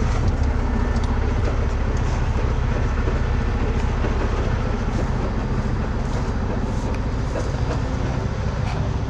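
Heavy wrecker's Cummins X15 diesel engine running steadily, a low, even drone.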